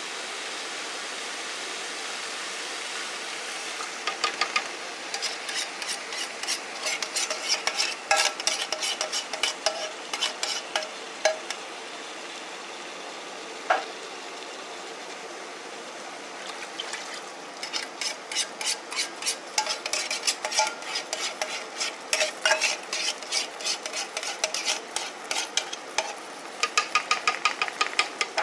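A metal spoon scraping against metal in rapid, regular strokes while coconut milk goes in with the curry paste, over a steady sizzle from the frying pot. There are two long runs of scraping, with a single sharp clink between them.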